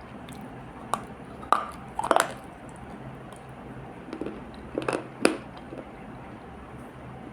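Moist multani mitti (fuller's earth) paste crunching and squishing in close-up, in sharp irregular crackles: a few about a second in and around two seconds, and another cluster near five seconds.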